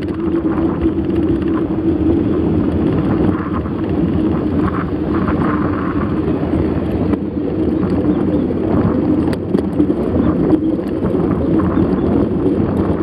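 Steady rumble and rush of riding along a road, with wind on the microphone.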